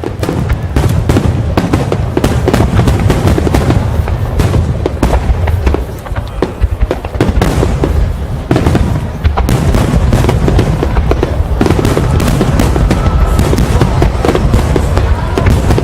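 A dense barrage of fireworks bursting in rapid, overlapping bangs and crackles, with music playing underneath.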